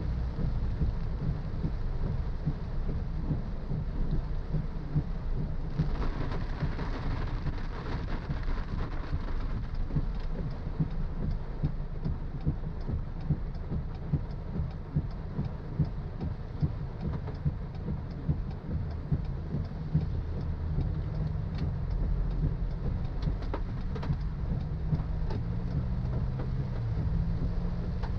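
Car driving in the rain, heard from inside: a steady low road-and-engine rumble under a hiss of rain, with scattered ticks of drops hitting the car. A louder hiss swells for about three seconds some six seconds in, and a steady engine hum comes up near the end.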